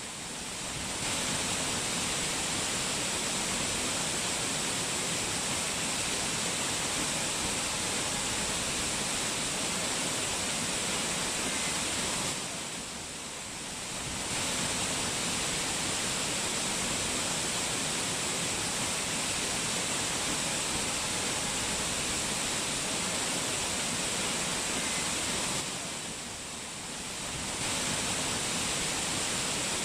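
Rushing mountain water running hard as a steady, even hiss, dipping briefly in level three times, about every 13 seconds.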